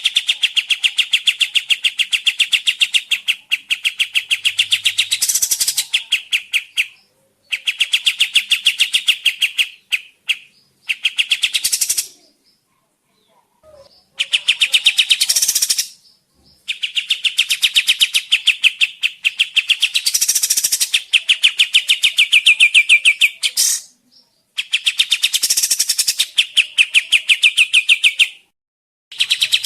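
Kapas tembak songbird singing a loud, rapid chattering trill of fast-repeated notes, in phrases of a few seconds broken by short pauses.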